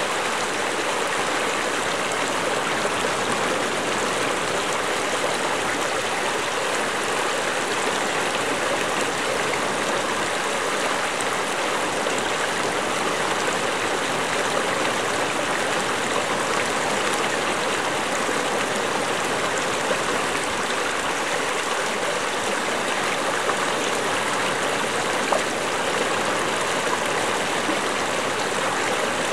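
A stream of fresh water running and babbling steadily over rocks, with a small splash about 25 seconds in.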